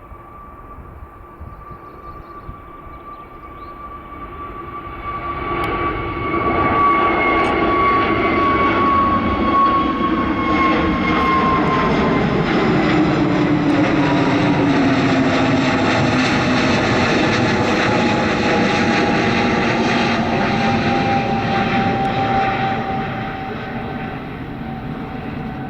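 Jet airliner passing close by with engines running, a steady whine under a broad roar. The sound builds over the first few seconds, stays loud for about fifteen seconds, then eases off near the end. The whine slowly falls in pitch as the plane goes past.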